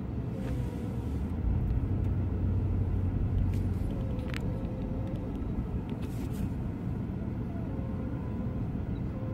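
Pickup truck engine running with a steady low rumble, a few faint clicks and knocks over it.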